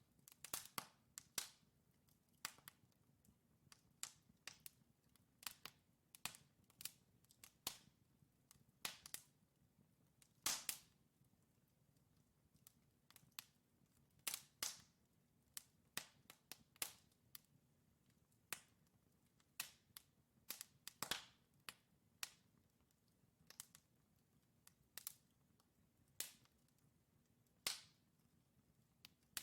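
Wood logs burning in a fireplace, crackling with sharp, irregular pops, sometimes single and sometimes in quick clusters, over a faint low background of the fire.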